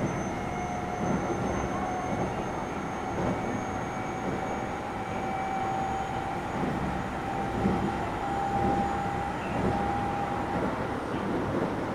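Keio 7000 series electric train running, heard from inside the car: a steady rumble of wheels on rail with low knocks now and then. A faint whine rises slightly in pitch and cuts out about ten and a half seconds in.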